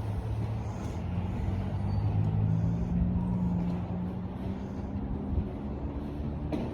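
A motor engine running, a steady low hum that drifts slightly in pitch, loudest in the first half.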